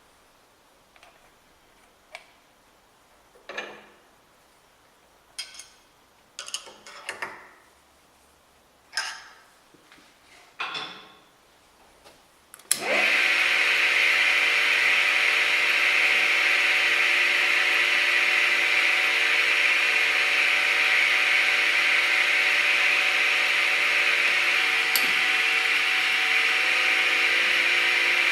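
A few scattered clicks and taps of metal parts being handled, then about halfway through a workshop power tool switches on suddenly and runs steadily, with a constant motor hum under a loud even hiss.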